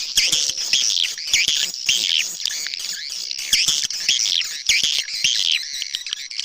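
Swiftlet calls from an edited lure-call recording: dense, repeated twittering chirps with sharp clicks scattered throughout.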